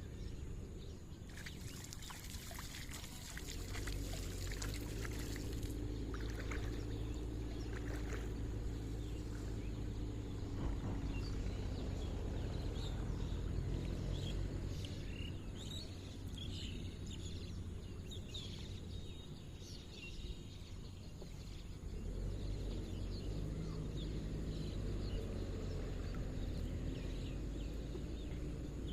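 Water splashing or pouring for a few seconds near the start, then a steady low rumble with birds chirping in the middle.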